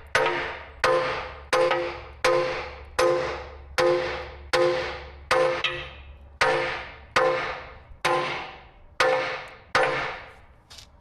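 Hammer blows on the heavy steel of an excavator bucket, pounding the heated, cracked edges back into line. There is a clang about every 0.7 seconds, each ringing out before the next, with the last few blows weaker near the end.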